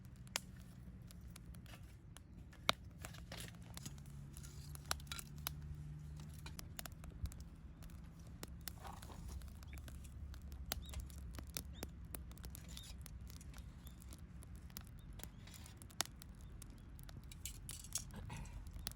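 Wood campfire crackling: irregular sharp pops and snaps, a few much louder than the rest, over a low steady rumble.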